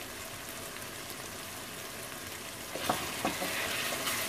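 Onions and tomatoes frying in oil in a metal pan, sizzling steadily under a mound of freshly added garlic-ginger paste. About three seconds in, a wooden spatula knocks against the pan and starts stirring, and the sizzle gets louder.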